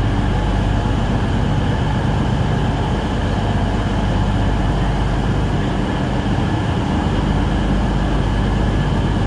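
Passenger train standing at a station platform with its engines running: a steady, loud hum with low, unchanging tones.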